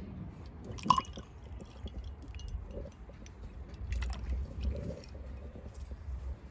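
Small wet handling sounds, squishy and liquid-like, with one sharp clink about a second in and scattered softer clicks over a low rumble.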